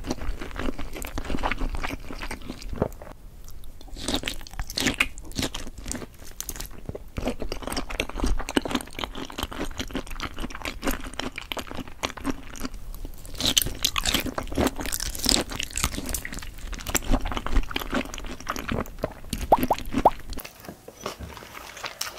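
Close-miked ASMR eating of soy-marinated raw shrimp and seafood: a steady stream of wet chewing and crunchy bites with many small clicks.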